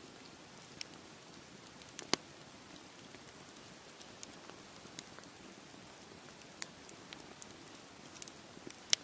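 Campfire crackling and popping: sharp, irregular pops, the loudest about two seconds in and just before the end, over a steady hiss from the sea surf.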